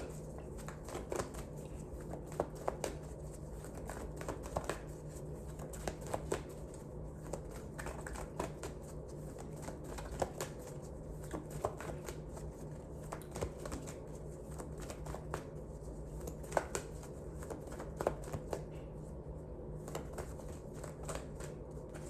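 Tarot or oracle cards being shuffled and handled, giving irregular soft clicks and snaps of card stock over a low steady hum.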